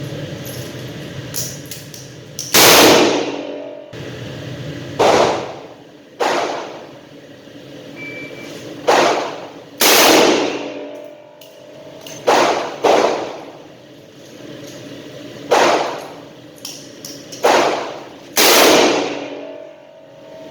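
Double-action revolver firing about ten shots at uneven intervals of one to three seconds, each shot trailing off in echo.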